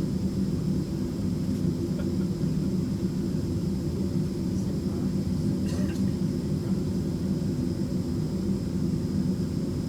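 Steady low drone of a Boeing 767 heard from inside the passenger cabin, with a faint thin high whine over it and a small click about six seconds in.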